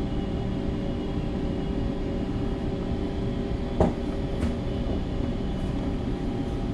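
Bulk carrier's engine and machinery running with a steady low rumble and hum. A single sharp knock about four seconds in.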